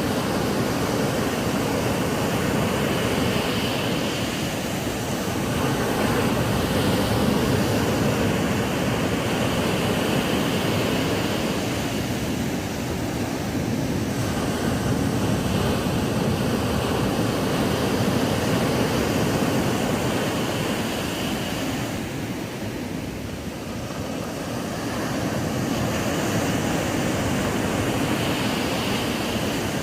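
Ocean surf breaking on a beach: a continuous rushing wash of waves that swells and eases every several seconds.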